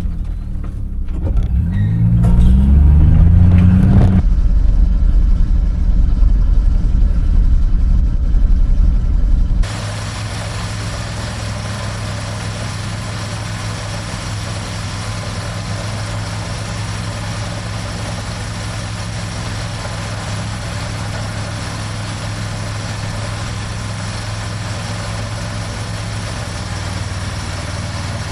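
Farm tractor engine revving up and running. About ten seconds in, the sound changes abruptly to a steady, even engine drone.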